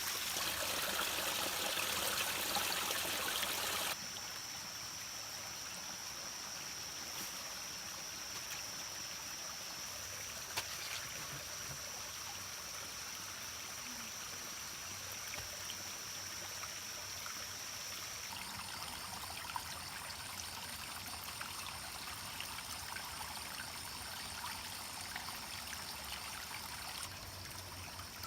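Steady wash of water noise with a thin, steady high-pitched tone above it. The sound is louder at first and drops suddenly about four seconds in.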